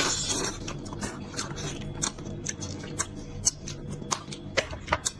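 Close-up wet chewing and lip smacking of a person eating beef trotter, with irregular sharp smacks a few times a second.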